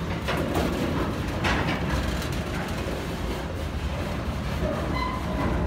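Loaded freight tank wagons rolling slowly past, a steady low rumble of wheels on rail with a few short clanks. A brief high squeal comes near the end.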